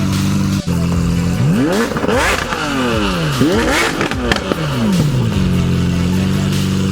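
A supercar engine idles, then is revved several times in quick blips, its pitch rising and falling. It then settles back to a steady idle.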